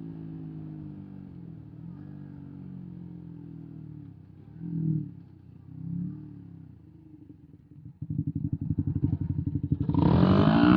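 125 cc sport motorcycle engine running steadily, with two short throttle blips near the middle. About eight seconds in a much louder, close pulsing exhaust note cuts in and swells into revving near the end.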